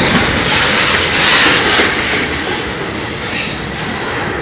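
Train rolling past close by: a loud, steady rumble and rattle of wheels on the rails, easing off slightly toward the end.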